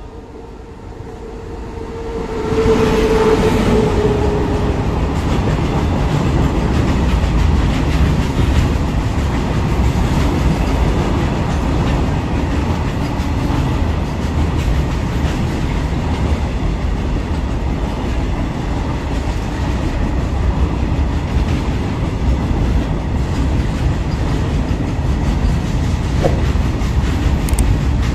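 Freight train hauled by a WAG-9 electric locomotive running through at speed: the sound swells about two seconds in as the locomotive reaches the platform, then a long line of BOXN open wagons rumbles and clatters steadily past over the rail joints.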